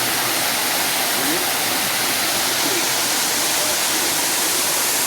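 Steady, loud rush of white water from a river waterfall and cascades.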